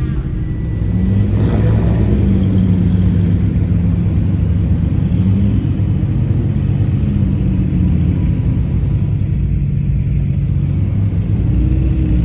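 Car engine running at low revs: a steady, low rumble.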